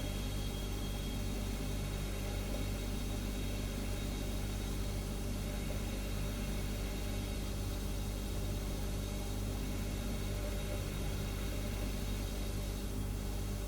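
Refrigerator humming steadily: a constant low mechanical hum under an even hiss, with no change.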